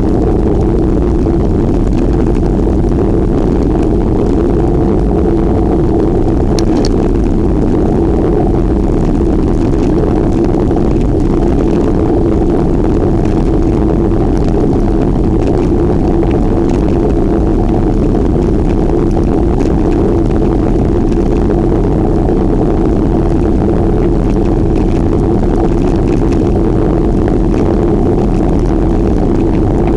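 Steady rushing roar of wind and road noise from a bicycle in motion, heaviest at the low end, with a constant hum running through it.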